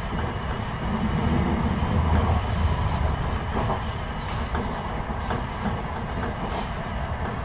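Enshu Railway electric commuter train pulling away from a station, heard from inside the front car: a steady low rumble of wheels and running gear, with a few short sharp clicks from the rails.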